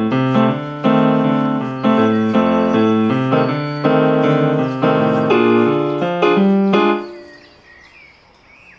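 Piano playing a slow run of full chords, each struck cleanly, stopping about seven seconds in. Faint birdsong follows.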